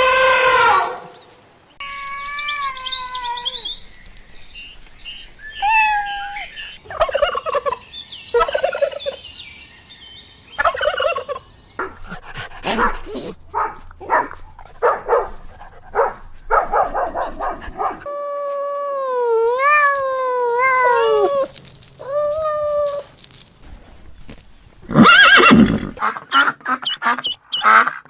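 Fowl calling: a string of separate calls, some rapid pulsing gobble-like runs and some wavering pitched calls, with a loud burst near the end.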